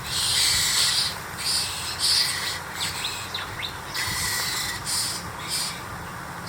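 Harsh, rasping bird calls repeated in short bursts, with a few brief thin whistled notes about three seconds in.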